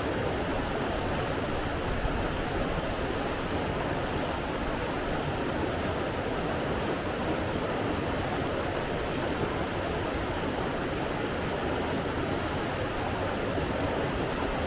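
Flowing water rushing steadily, an even hiss with no swells or breaks.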